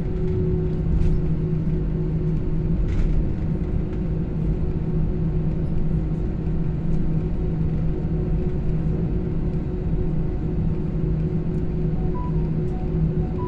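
Jet airliner heard from inside the cabin: a steady engine drone and low rumble with a constant hum, as the plane taxis after landing. A few faint short high tones sound near the end.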